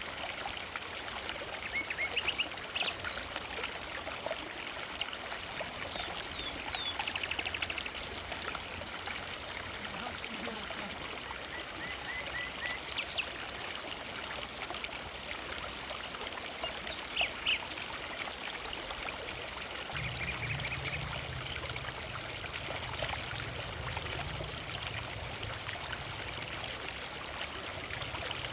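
A forest river flowing steadily, with scattered short bird chirps and a brief trill over the water. A faint low hum joins about two-thirds of the way through.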